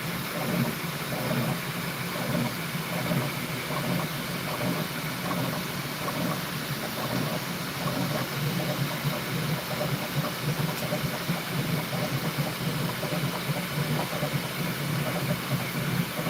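Bambu Lab P1S 3D printer printing: a steady mechanical running sound of stepper motors and cooling fans, with a low buzz that wavers unevenly and a constant hiss over it.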